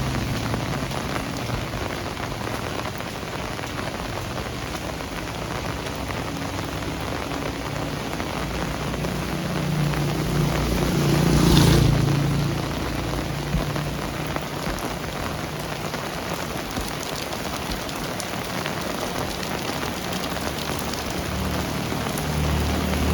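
Steady rain falling and pattering on surfaces, with a louder swell that rises and falls about halfway through.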